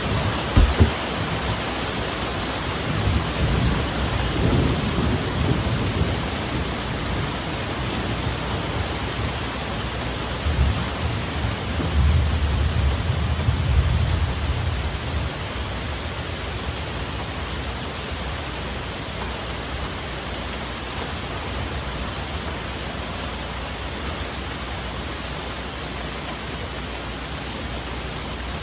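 Steady rain falling on forest foliage, with thunder. A sharp clap comes just after the start, then low rolling rumbles follow a few seconds in and again near the middle, dying away to rain alone.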